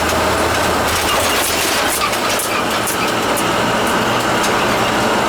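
Steady road and engine noise inside a moving truck's cab, with a low engine hum under an even rushing noise.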